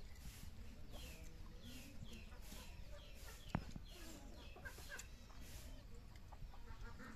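Birds chirping: a string of short, falling calls about twice a second that thin out near the end, with one sharp knock about three and a half seconds in.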